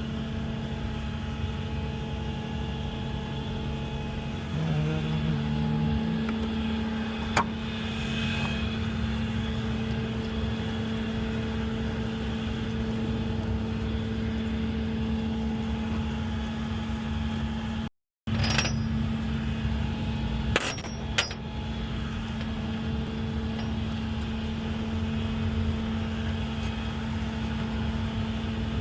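A vehicle engine running with a steady, even hum and a few sharp clicks. The sound cuts out completely for a moment just past the middle, then resumes unchanged.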